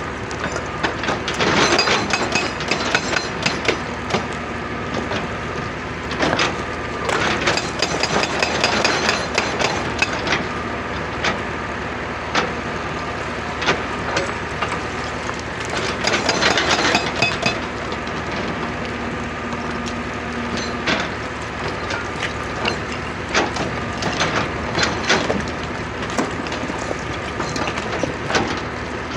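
Excavator engine running steadily, with three bursts of dense clattering and cracking as rock is dug and broken: the first about a second in, the second around eight seconds, the third around seventeen seconds, with scattered single knocks between.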